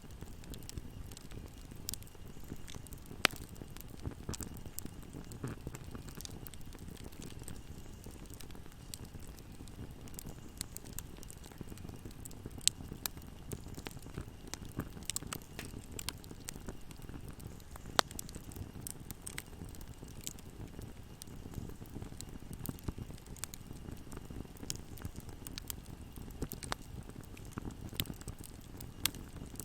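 Wood fire burning in a fireplace: a steady low rumble of flames with frequent irregular crackles and pops, a few of them sharp and loud.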